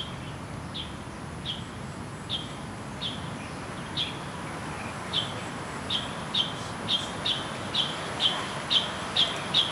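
A bird calling: one short, high chirp repeated over and over, slowly at first and then faster, about two a second by the end, over steady outdoor background noise.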